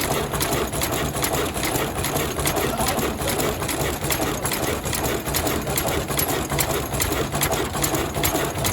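Vintage Ruston stationary diesel engine running steadily, a rapid even mechanical clatter.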